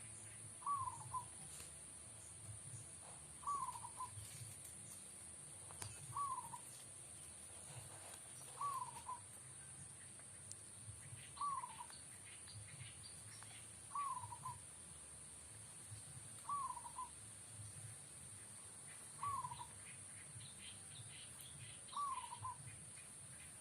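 Zebra dove (perkutut) cooing its short rolling call over and over, nine times, about every two and a half seconds. Faint chirps from small birds come in twice, and a steady high whine sits under it all.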